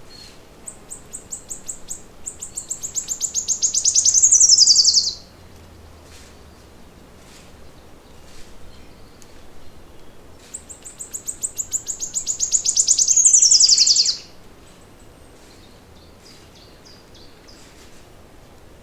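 A songbird singing twice, each song a long, high, rapid trill that speeds up and grows louder before ending in a falling note, the two songs about ten seconds apart. Faint chirps from other birds can be heard between them.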